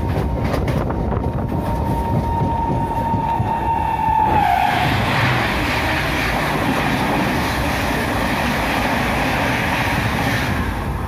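MEMU electric local train running, heard from inside at an open window: a steady rumble with a few clacks over the rails in the first second or so. A high steady whine drops in pitch and stops about four seconds in, and a brighter rushing hiss then takes over.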